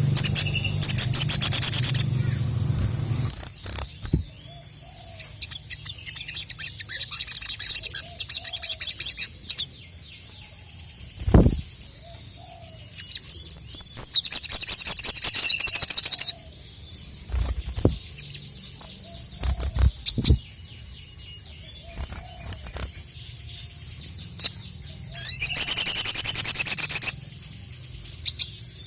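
A sogon (sogok ontong) songbird singing in four loud bursts of fast, high-pitched trilling of a couple of seconds each, with scattered chirps between them. A few short low thumps come in the gaps.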